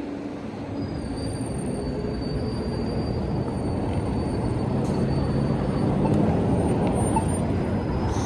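Wind and road rumble from riding an electric bike, growing steadily louder, with a thin, steady high squeal running through most of it.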